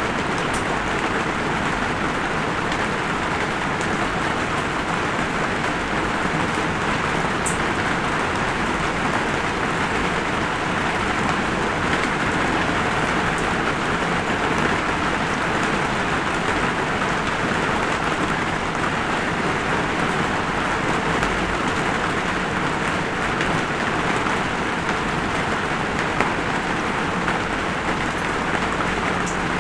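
Light rain falling steadily, an even hiss with a few sharper drop ticks now and then.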